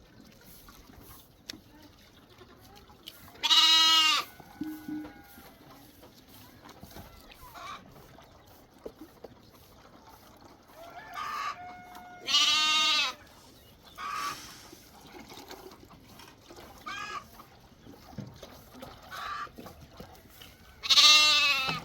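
Goat bleating loudly three times, several seconds apart, with fainter short animal calls in between.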